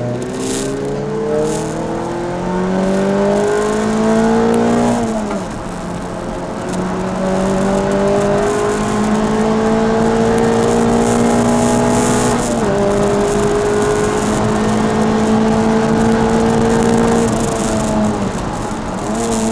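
Peugeot 306 Rallye's four-cylinder engine at full throttle, heard from inside the cabin, climbing steadily in pitch as the car accelerates. The pitch drops sharply at gear changes about five seconds in and again about twelve and a half seconds in, and falls away near the end as the driver eases off.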